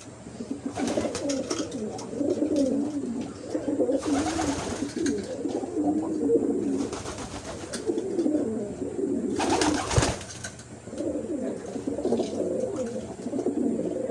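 Racing pigeons cooing continuously in a loft, several birds' low warbling coos overlapping. A few short bursts of noise break in, the loudest about ten seconds in.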